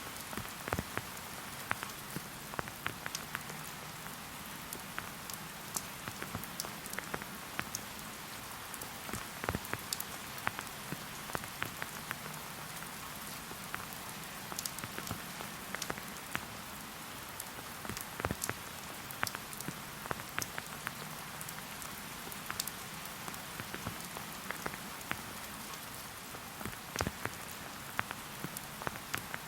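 Steady rain falling on a forest, an even hiss with many individual drops tapping close by.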